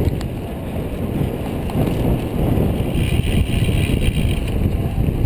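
Wind buffeting the microphone of a camera carried on a moving road bicycle, heard as a steady low noise.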